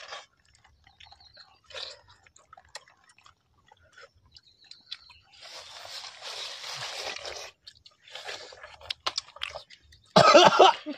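People biting into and chewing juicy watermelon slices: scattered wet crunches and smacks, with a longer noisy slurp a little after halfway. A short loud voice sound comes near the end.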